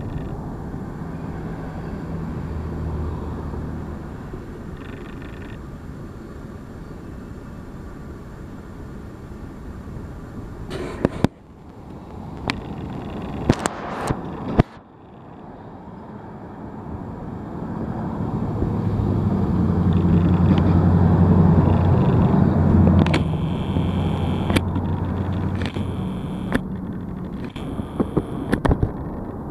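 Slow freight train rolling past: a steady low rumble of freight cars on the rails, with several sharp clanks about a third and halfway through and again near the end. A louder low hum swells up through the second half.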